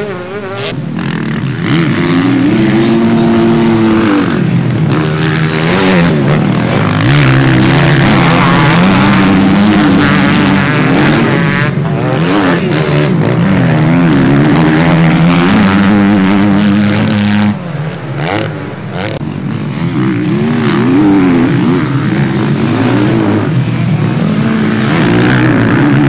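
Motocross bikes racing, engines revving up and down as the riders work the throttle and shift. At times two bikes are heard at once, and there is a brief lull about 18 seconds in.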